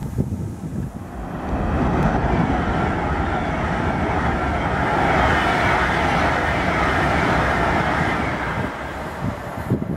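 Class 390 Pendolino electric train running through the station at speed: a rush of wheel-on-rail and air noise that builds about a second in, holds steady, and fades near the end.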